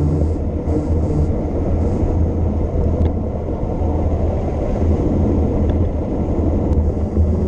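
Steady low rumble of wind buffeting the microphone of a camera riding on a mountain bike descent, with a faint hiss above it.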